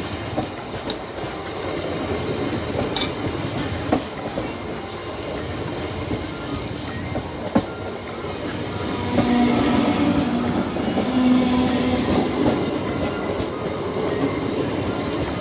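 Indian Railways passenger coaches passing close by at speed: a steady rumble of steel wheels on the rails with clickety-clack as the bogies cross the rail joints, and a couple of sharp clacks. Twice near the middle a short low steady tone sounds over the rumble.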